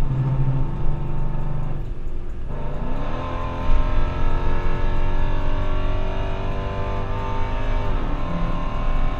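Modified 5.7-litre Hemi V8 with a stage 2 cam and long-tube headers, pulling hard under acceleration. The engine note drops briefly about two seconds in, climbs back up and holds high, then falls again near the end.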